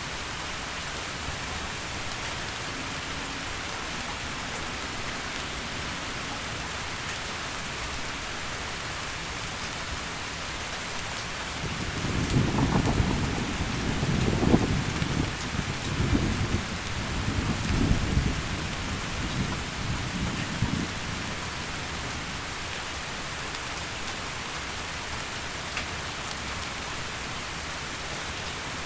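Heavy rain falling steadily. About twelve seconds in, a long low rumble of thunder rolls for around nine seconds, loudest near its start, then fades back into the rain.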